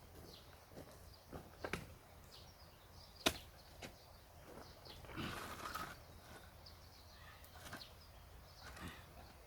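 Firewood being split: one sharp crack about three seconds in, with a few lighter knocks of wood and a brief rustle a little after five seconds.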